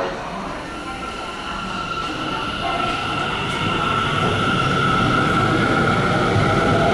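Electric subway commuter train moving along the underground platform, a steady high-pitched tone over the rumble of wheels on rail, growing louder.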